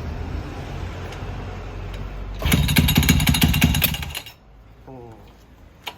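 Custom 124cc single-cylinder 4-mini motorcycle engine with a KTM 690 muffler running, then revved hard for under two seconds about two and a half seconds in, with a rapid, sharp exhaust beat. It drops away suddenly a little past four seconds, leaving it quiet.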